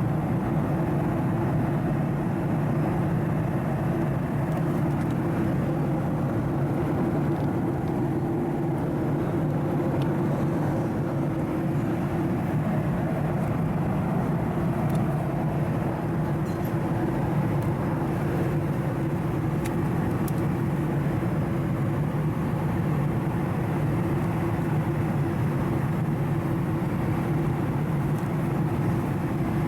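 Boeing 737-700's CFM56-7B jet engines and airflow making a steady, unbroken rush with a low hum.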